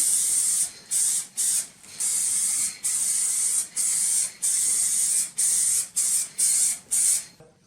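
Aerosol can of black spray paint hissing, first in one longer spray and then in about ten short bursts of under a second each, separated by brief gaps.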